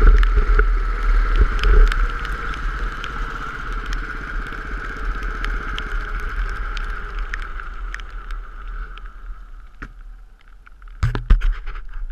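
Go-kart engine running steadily over a low wind rumble, with scattered ticks. It dies down over the last few seconds, then a few knocks sound near the end.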